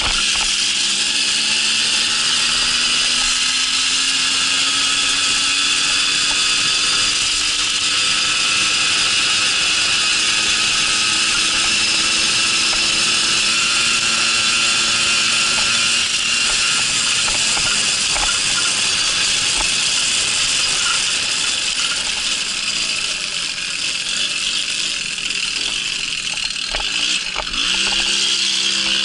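A Babetta moped's small two-stroke engine running under way. Its note climbs slowly over the first half and then holds steady, drops briefly near the end and picks up again.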